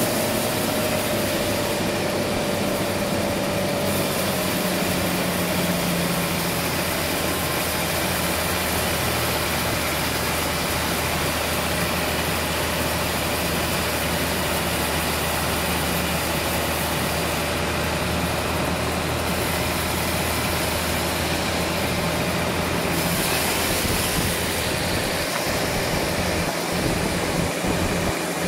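Sawmill machinery running steadily: an engine hum under a held whine that sags a little in pitch over the first few seconds.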